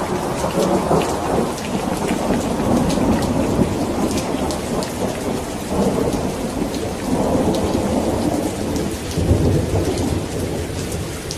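Steady heavy rain hissing and pattering, with thunder rolling through it in long low rumbles that swell and fade, one already rumbling at the start, others about six, seven and nine seconds in.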